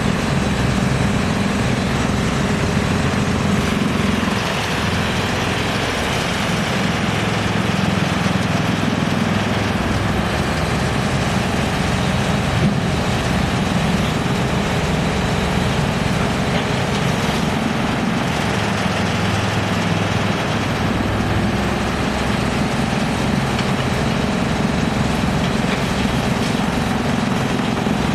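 Wood crusher (sawdust-making machine) running steadily: a loud, constant engine-like hum with a broad hiss over it.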